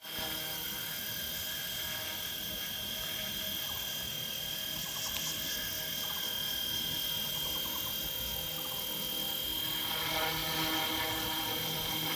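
Radio-controlled scale EC135 model helicopter hovering low, its rotors running steadily with a constant high whine.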